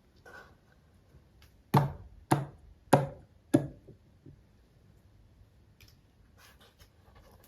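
Small plastic toy pieces handled on a hard surface: four sharp taps about half a second apart, then faint small clicks and rustling.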